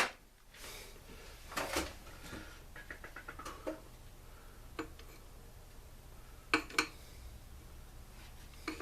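Scattered light clicks and clinks of small metal parts and tools being handled on a workbench during a teardown, with a quick double click about six and a half seconds in.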